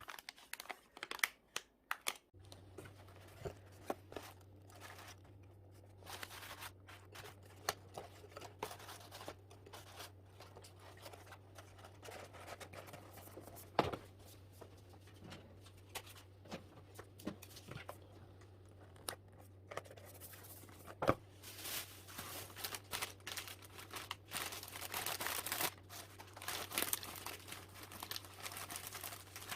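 Parcel packaging being handled by hand: crinkling, rustling and tearing of packing material with scattered clicks and taps, busier in the last several seconds. A low steady hum comes on about two seconds in.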